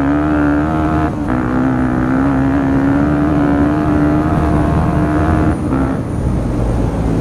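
Yamaha WR250 dirt bike's single-cylinder engine running at steady revs while riding, with two brief dips in the note, about a second in and again past five seconds. Near the end the engine note drops away into a rougher rushing noise.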